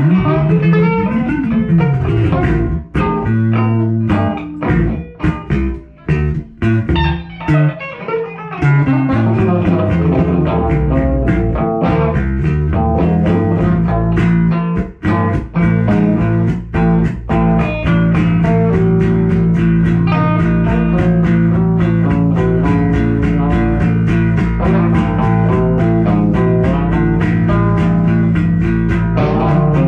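Guitar and bass guitar music with a blues feel: plucked notes over a bass line, choppy and broken up in the first half, settling into a steadier held groove after about 18 seconds.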